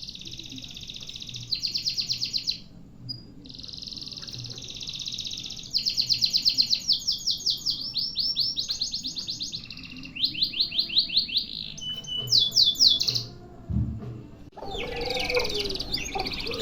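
Domestic canary singing a long song of fast rolling trills, each run of repeated notes giving way to another every second or so, with a brief pause about three seconds in. Near the end it cuts suddenly to a busier stretch of birdsong.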